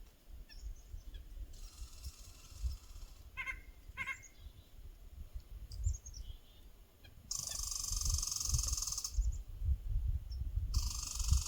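Small backyard birds calling in short high notes, with two quick pairs of sharper, nasal-looking call notes about three and a half seconds in. Low wind rumble on the microphone throughout, and two loud hissing stretches of about two seconds each, the first about seven seconds in and the second near the end.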